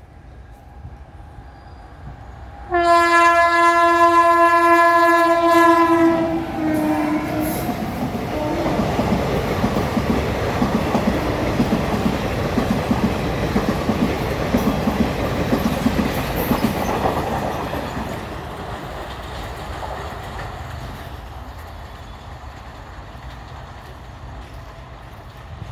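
WAG9 electric locomotive sounding its horn for about three seconds, the pitch dropping as it goes by. Then the passenger coaches run past with the clickety-clack of wheels over rail joints, dying away near the end.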